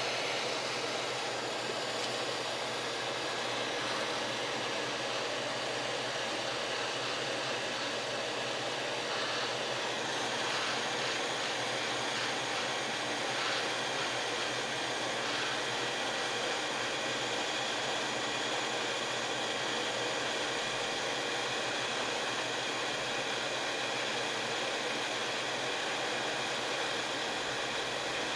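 Hot air soldering gun running, its fan blowing a steady, even hiss of air.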